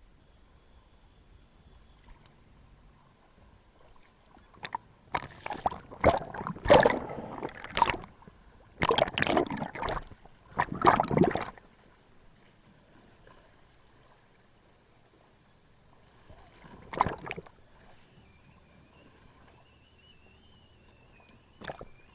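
Water sloshing and splashing in a run of loud bursts through the first half, then one more splash and a short sharp one near the end.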